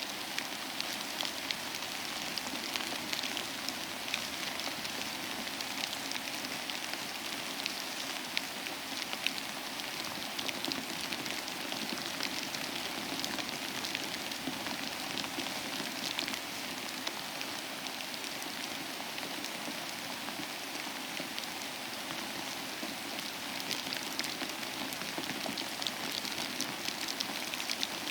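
Steady rain falling, an even hiss with many close, sharp drop ticks throughout.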